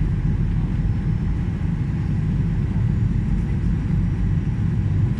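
Airliner cabin noise on the landing approach: a steady low rumble of engines and airflow heard from inside the passenger cabin.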